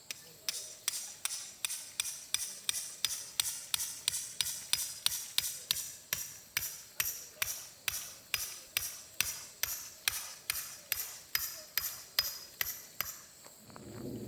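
A rapid, even series of sharp high-pitched clicks, about three a second, running for some thirteen seconds and stopping shortly before the end.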